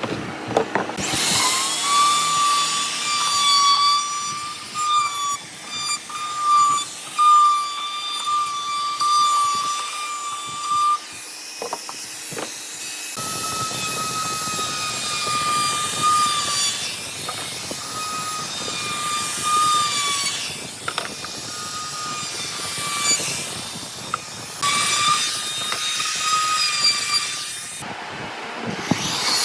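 Handheld electric power tool's motor running with a steady high whine. It stops for a couple of seconds near the middle and again shortly before the end.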